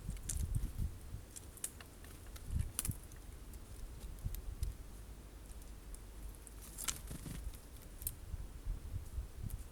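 Birds at a feeder handling and pecking sunflower seeds: irregular sharp clicks and taps, with soft low bumps.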